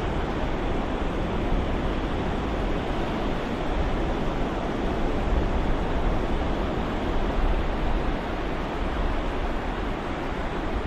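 Steady ocean surf used as white noise: a dense, even wash of breaking waves, swelling and easing slightly in loudness.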